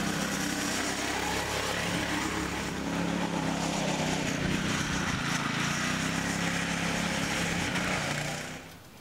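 A motor running steadily with a low, even hum over a hiss, winding down and stopping near the end.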